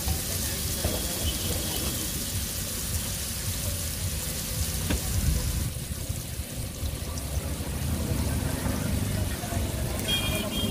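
Oil sizzling steadily on a large flat griddle (tawa) as chopped tomatoes, onions and spices fry, over a low rumble of street traffic.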